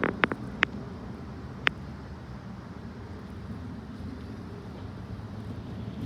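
Railway platform background noise: a steady low rumble, with a few sharp clicks in the first second and one more a little later.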